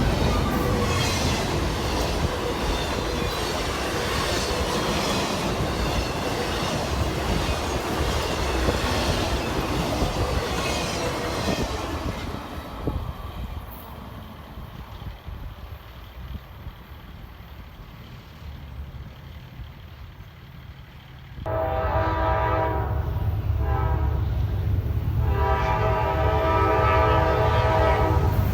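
Freight train rolling past with wheels clacking over the rail joints, fading away after about twelve seconds. Later a locomotive air horn sounds a chord in two long blasts over the low rumble of the diesel engine.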